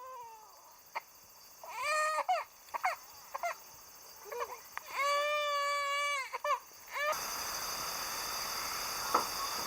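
Baby crying: a run of short wails that rise and fall, then one long held wail about five seconds in. A steady insect hum comes back near the end.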